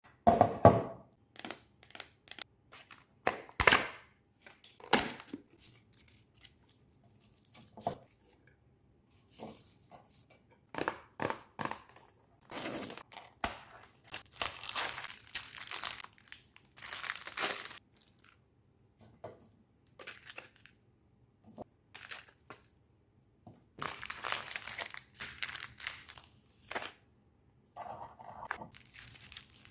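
Snack packets and chocolate wrappers crinkling and being torn open, in irregular bursts of rustling with sharp clicks and clatters between them.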